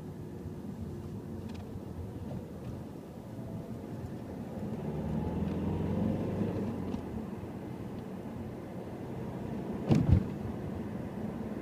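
Car engine running under way, heard from the driver's footwell; its note rises around five seconds in, then eases off. A sharp thump about ten seconds in.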